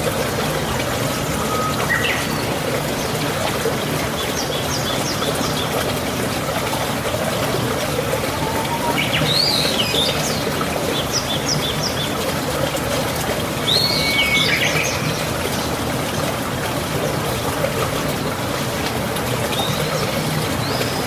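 Small birds chirping in a few short bursts of quick calls over a steady background hiss.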